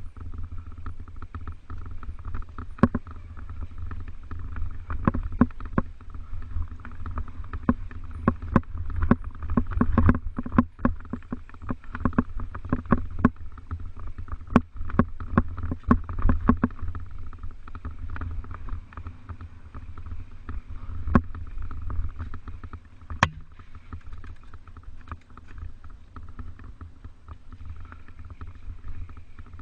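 Mountain bike riding over rough ground: a steady low rumble with frequent rattles and knocks, thickest in the middle, and one sharp knock about two-thirds of the way through.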